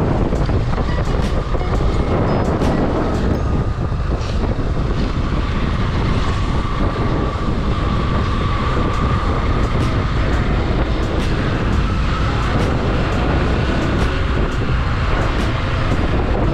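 Motorcycle under way, wind buffeting the rider's microphone over the engine and road noise, with a faint whine that drifts slightly in pitch.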